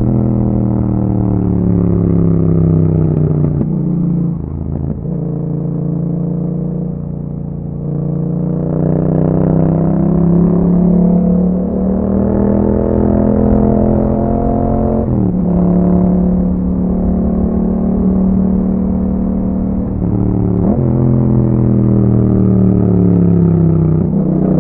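2021 Yamaha MT-07's parallel-twin engine through an aftermarket Akrapovic exhaust, pulling under load. Its note climbs in pitch, with sudden brief dips at the gear shifts, three of them spread through and one at the very end. For a few seconds near the start it eases off and drops lower before pulling again.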